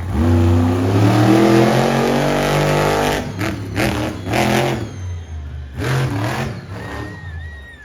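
Monster truck engine revving hard, its pitch climbing over the first three seconds, then several short bursts of throttle.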